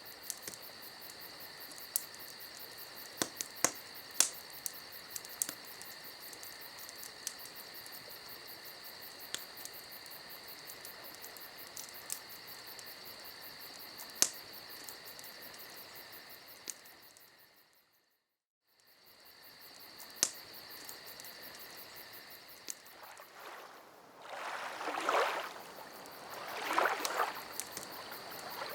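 Crickets chirring steadily over the scattered sharp crackles and pops of a campfire. The whole mix fades out briefly about two-thirds of the way through and comes back. Near the end, two swelling rushes of noise rise over it.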